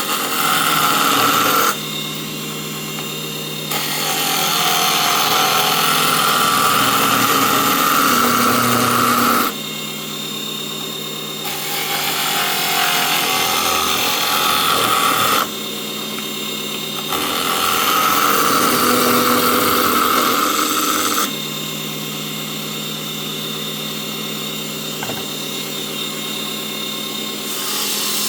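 Mini wood lathe's motor running steadily while a turning chisel cuts the spinning wooden blank in four passes of a few seconds each. The cutting noise stops between passes, leaving just the motor hum, and the last several seconds are the motor alone.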